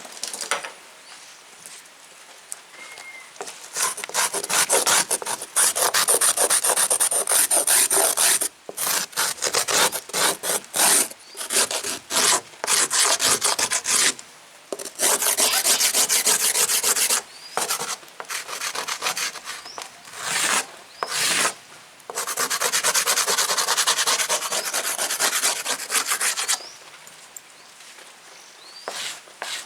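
Rapid back-and-forth rubbing or scraping strokes on a hard surface, coming in several long runs separated by short pauses.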